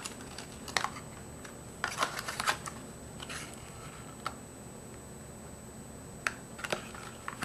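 Scattered light clicks and rustles of small plastic parts and packaging being handled, a few at a time with quiet gaps between.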